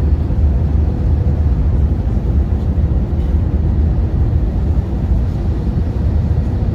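Steady low rumble of an airliner's engines and rushing air, heard inside the passenger cabin, with a faint steady hum above it.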